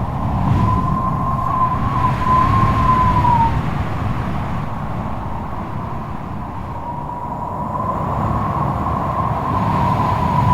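Strong wind blowing hard, with a deep rushing rumble and a wavering whistle that fades about three and a half seconds in and comes back about seven seconds in.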